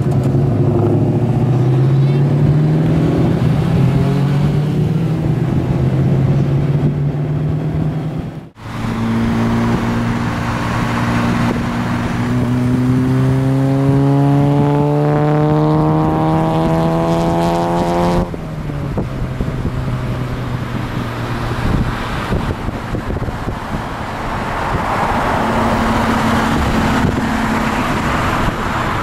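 Turbocharged 2001 Ford Mustang GT's 4.6-litre V8 under way: it runs steadily at first, then after a break makes a pull, its pitch rising steadily for about nine seconds before cutting off suddenly, and it settles back to cruising with road and wind noise.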